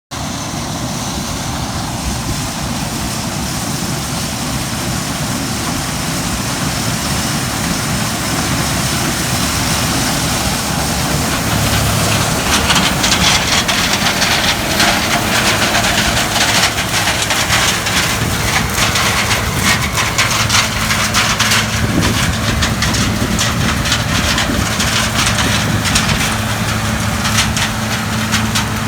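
Gleaner combine harvesting corn with a 4-row corn head: steady engine and machinery drone. From about twelve seconds in a dense crackling rattle and a steady low hum join it, as the machine takes in and threshes corn.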